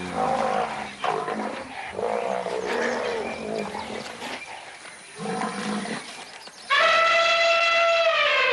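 Large animals grunting and bellowing, then an African elephant trumpets loudly for nearly two seconds, a high call that drops in pitch as it ends.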